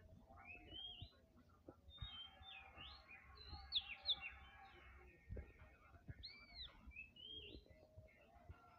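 Songbirds chirping and calling, with repeated rising-and-falling whistled notes. Several birds call over one another from about two to five seconds in, with a couple of sharp chirps near the middle.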